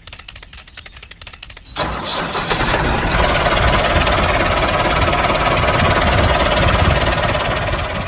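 Rapid, even ticking for nearly two seconds, then the handmade mini MF385 tractor's small engine catches and runs loudly and steadily.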